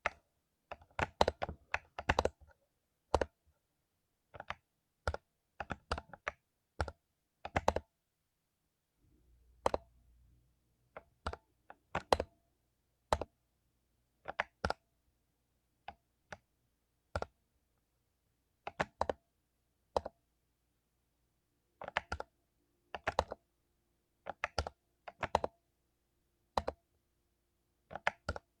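Mechanical keyboard with lubed Cherry MX Silver linear switches being typed on: irregular keystrokes, singly or in short runs, with pauses of a second or more between them.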